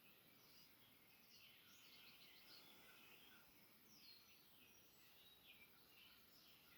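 Faint birdsong: several birds chirping and trilling with short quick notes and a few falling whistles, over a soft steady hiss.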